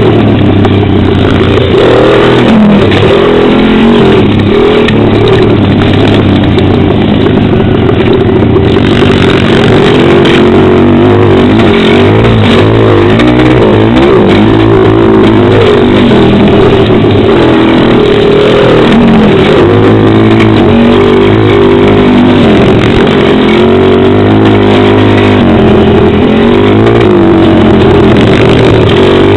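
Pit bike's small single-cylinder engine running loud under riding, its pitch rising and falling over and over as the throttle is opened and closed, picked up close by a helmet camera.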